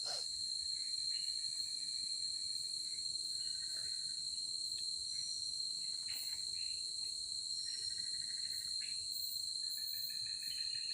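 Forest insect chorus at night: a steady shrill high tone, with fainter trilling calls coming and going lower down. A single sharp click right at the start.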